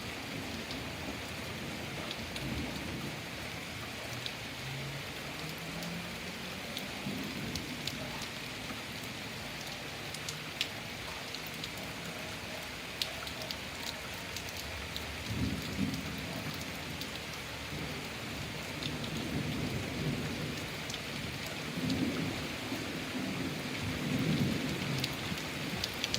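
Steady heavy rain with individual drops ticking, under low rolls of thunder that rumble up several times, most strongly past the middle and toward the end.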